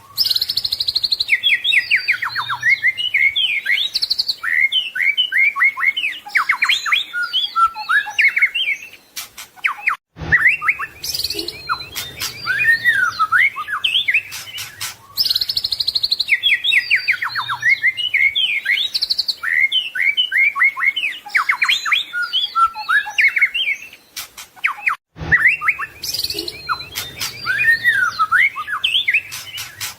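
White-rumped shama (murai batu) singing a fast, varied run of rich whistles and chattering phrases. The same stretch of song repeats about every fifteen seconds, with a brief break before each repeat.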